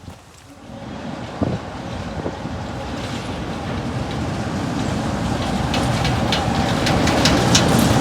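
A train approaching, its running noise growing steadily louder, with sharp clicks and squeaks from the wheels building up over the last few seconds.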